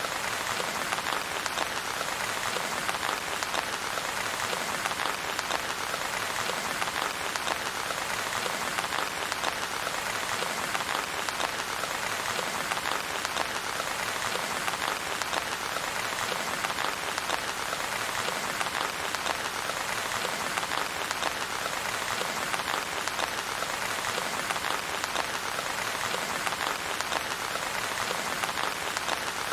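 Steady, dense rainfall, an even patter of drops with no let-up and no thunder.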